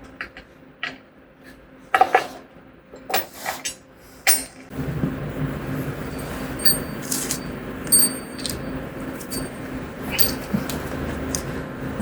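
Metal clinks and clanks of steel parts and hardware being handled. About five seconds in, a steady rushing hum starts and runs under a few more clinks.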